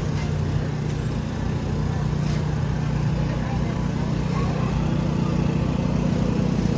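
An engine idling steadily at an even, low pitch, typical of a car at a car show.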